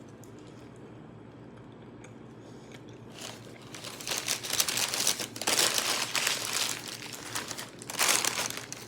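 A fast-food wrapper crinkling as it is handled and unwrapped, in irregular bursts from about three seconds in.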